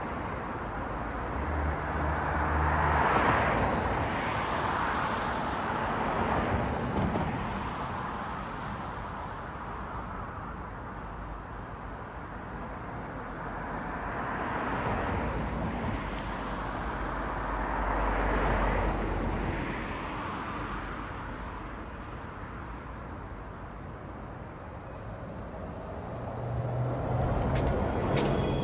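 Night road traffic: vehicles passing one after another, their tyre noise swelling and fading about four times over a steady traffic rumble, with a deeper engine hum from a heavier vehicle near the start and again near the end.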